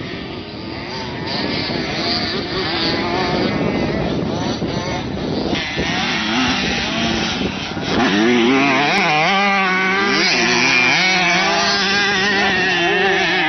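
Off-road motocross motorcycle engines revving on the track, the pitch rising and falling as the throttle opens and closes. About eight seconds in, the engine note becomes louder and clearer.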